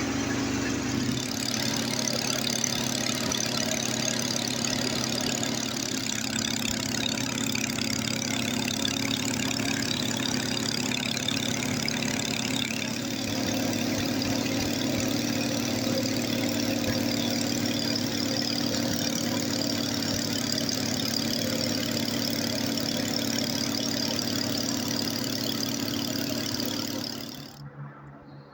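Snowblower engine running steadily, then dropping away suddenly near the end.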